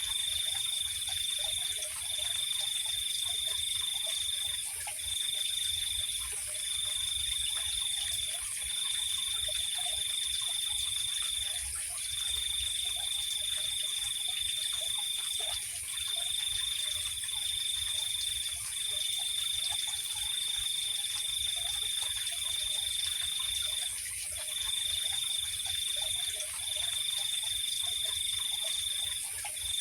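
Night insect chorus: a steady high trill broken by brief pauses every few seconds, over a continuous higher-pitched buzz, with faint scattered lower calls beneath.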